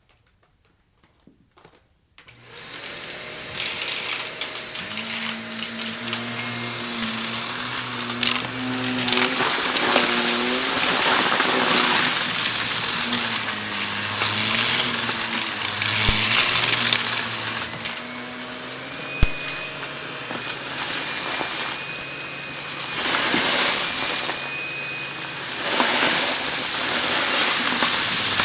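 Vacuum cleaner switched on about two seconds in, its motor running with a wavering hum and crackling as it sucks up crunchy debris, getting louder and softer in surges as it is pushed back and forth.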